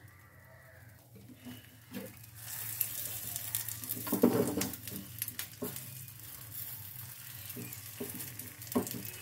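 Egg omelette frying in hot oil in a nonstick pan: a crackling sizzle that starts about two seconds in and keeps going. A few soft scrapes and taps of a slotted spatula against the pan come as the omelette is folded.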